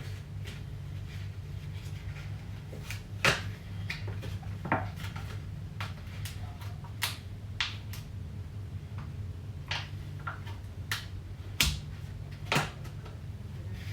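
Scattered clicks and knocks of things being handled in a kitchen, the loudest about three seconds in and twice near the end, over a steady low hum.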